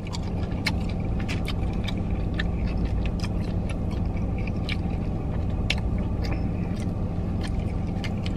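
Close-up chewing, with wet mouth clicks and smacks, as a person eats seafood boil, over a steady low hum from the car.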